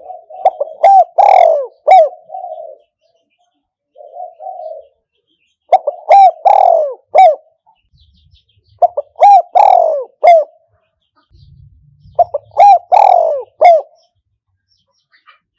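Spotted dove cooing in four phrases of a few short coos each, repeated about every three to four seconds, with one softer coo between the first and second phrases. It is the call of a decoy bird used to lure wild spotted doves.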